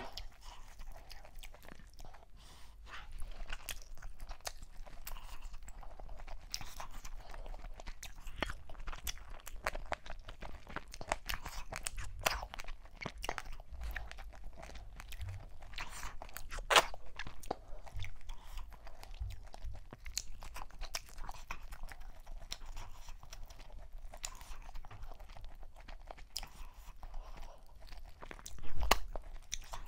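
Close-miked eating sounds: chewing and wet mouth clicks while eating turkey meat in okra soup by hand, a steady run of small clicks with a louder knock about 17 seconds in and another near the end.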